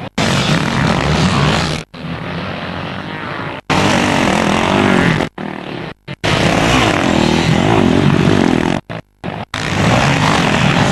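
Dirt bike engine revving up and down as the bike is ridden over the track, heard from a helmet camera with wind noise. The sound cuts out abruptly several times, for a moment each.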